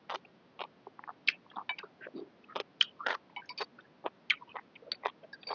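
A person chewing food close to the microphone, eating Thai boat noodles: irregular wet mouth clicks and smacks, several a second.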